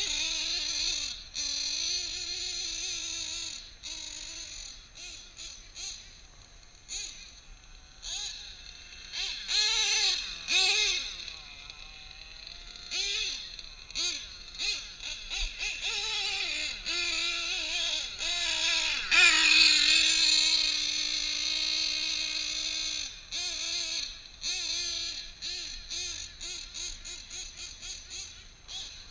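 Kyosho Scorpion truggy's small nitro engine, a drag-modified Novarossi .28, running with a high-pitched buzz that rises and falls with repeated throttle blips. It holds one steady pitch for a few seconds about two-thirds of the way through.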